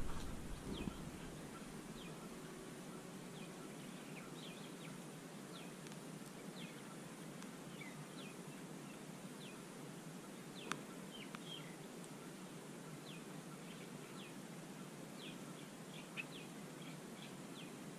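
Quiet open-air ambience with frequent short, high, falling bird chirps scattered throughout, and one sharp click about eleven seconds in.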